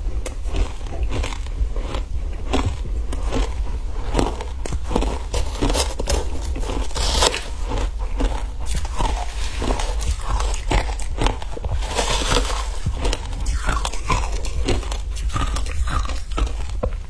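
Someone biting into and chewing frozen ice, a rapid run of irregular close-up crunches and cracks.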